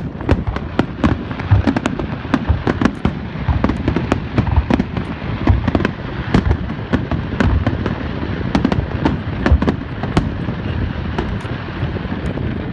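Aerial fireworks display going off: a dense, unbroken stream of booms and crackling bursts, several a second.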